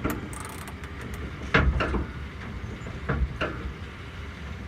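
Hydraulic brakes of a 1969 American LaFrance fire truck being bled while the pedal is pumped: three short sputtering bursts about a second and a half apart as air and fluid spit from the opened bleeder, over a steady low rumble.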